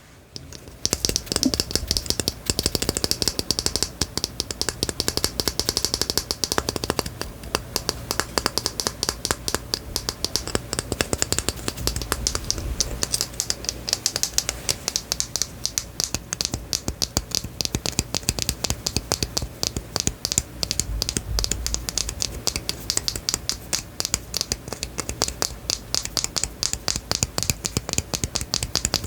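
Rapid, continuous small clicks and taps, many a second, starting about a second in after a brief quiet moment.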